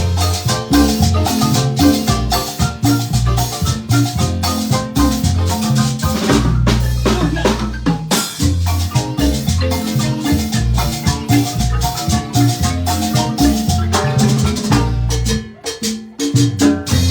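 Marimba band playing lively dance music: quick mallet notes over a steady bass line. The music thins out briefly about fifteen and a half seconds in, then picks up again.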